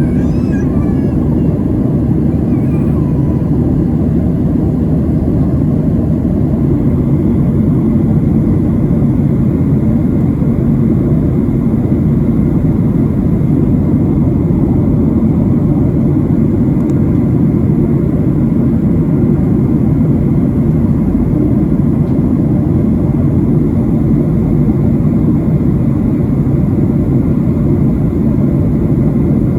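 Steady in-flight cabin noise of a Boeing 737-700: a low, even rush of airflow and its CFM56-7B turbofan engines.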